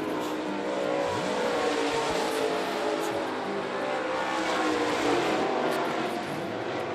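A field of dirt late model race cars running at speed, several V8 engines overlapping, their pitch rising and falling as the cars pass and change throttle.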